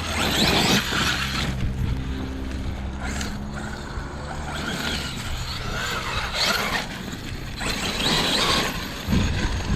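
Large-scale 12S electric RC truck (30° North 5T) driving hard over loose construction-site ground: electric motor and drivetrain running under a rushing tyre noise that surges about three times.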